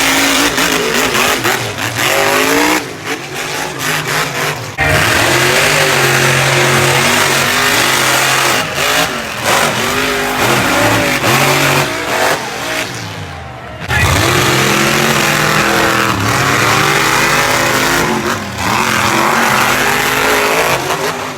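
Monster truck engines revving hard and unevenly. The pitch climbs and falls with the throttle, with lifts off the throttle about three seconds in and again around thirteen seconds.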